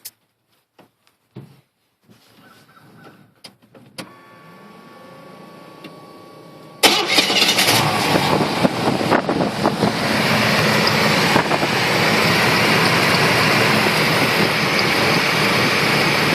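Cold start of a 1987 Chevrolet Silverado's 350 (5.7 L) V8 through a true dual Flowmaster exhaust. After a few faint clicks and a quiet steady hum, the engine fires suddenly about seven seconds in and runs loud. A few seconds later it settles into a steady cold idle.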